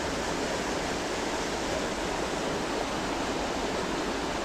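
Fast-flowing creek water rushing, a steady even noise without breaks; the creek is running high after a storm.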